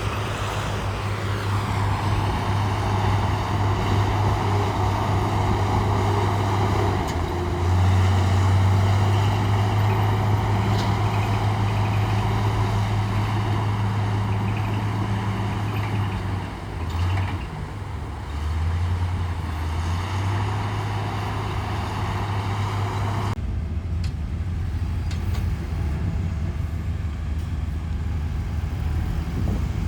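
Heavy diesel earthmoving machinery running, its low engine note rising and falling with load several times. About three-quarters of the way through the sound changes abruptly and loses most of its higher clatter.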